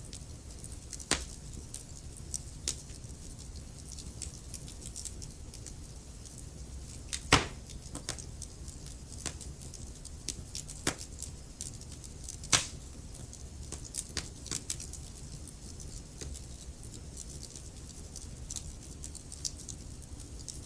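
Wood fire crackling in a fireplace: burning logs give off irregular sharp pops over a steady low rumble, with a few louder snaps about a second in, near the middle and a little past halfway.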